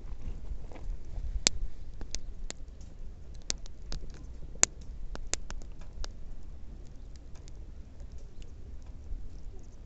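Wood fire crackling, with irregular sharp pops and snaps of burning wood, the loudest about a second and a half and about four and a half seconds in, over a low rumble.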